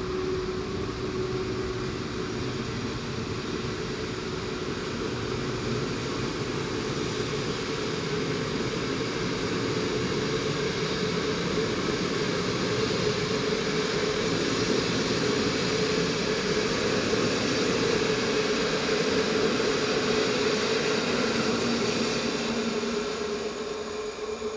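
Passenger coaches of an electric-hauled train rolling past on the near track: a steady rumble and hiss of wheels on the rails that fades as the last coach goes by near the end.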